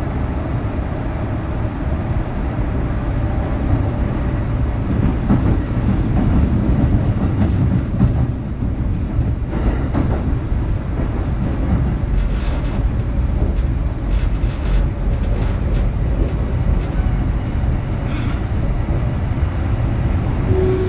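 Kintetsu 3200 series electric train running, heard from inside motor car Mo 3205: a steady rumble of wheels on rail, with a few light clicks in the middle.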